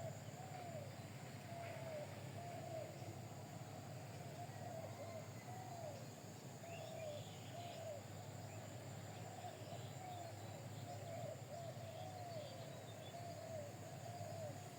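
A bird calling over and over: short notes that rise and fall in pitch, roughly one a second, over a steady low hum.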